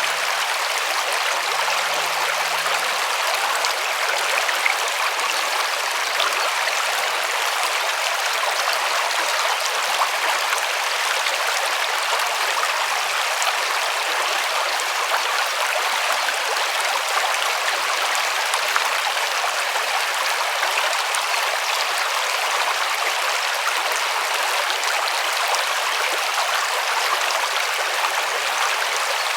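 River water rushing and splashing over rocks in a steady, even stream, with small splashes and drips flecking the flow.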